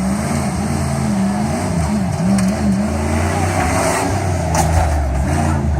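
Jeep Grand Cherokee's engine revving up and down several times, then settling into a steadier, lower drone for the last couple of seconds.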